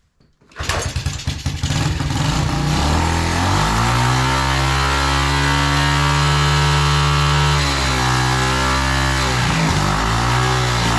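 Yamaha TTR90 dirt bike's small single-cylinder four-stroke engine being cranked, catching after about three seconds and running at a steady fast idle. Near the end the revs drop and it runs unevenly, hunting up and down. This is the used engine, which burns oil badly and needs a top end.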